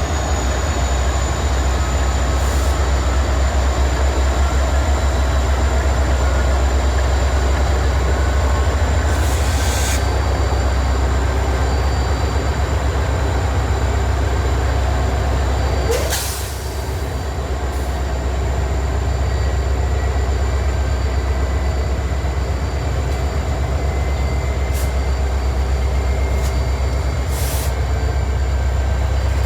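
CSX freight train cars rolling past in a steady low rumble, with steady high-pitched wheel squeal. A few short clanks come over it, one about sixteen seconds in.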